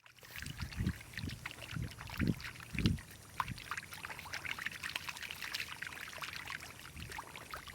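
Water splashing and trickling, with a handful of low thumps in the first three seconds.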